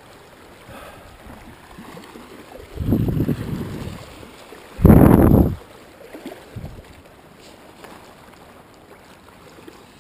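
Wind and water noise on a lake, with a softer rush about three seconds in and a short, loud rush about five seconds in.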